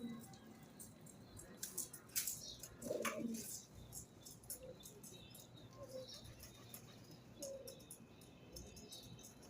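Pigeons cooing in short low notes every second or two, with sharp high chirps and ticks from other birds over them; a louder, fuller burst about three seconds in.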